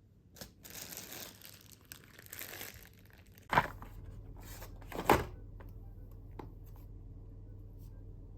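Crinkly rustling, like plastic or paper being handled, for a few seconds, then two sharp knocks about a second and a half apart over a steady low hum.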